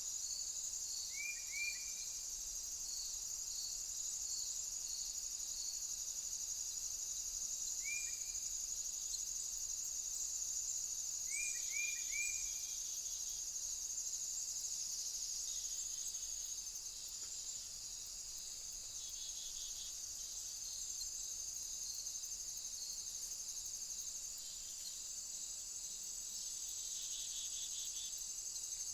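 Insect chorus: a steady, high-pitched, fine trilling throughout. A few short chirps cut in: a quick pair about a second in, one around eight seconds, and a run of three near twelve seconds.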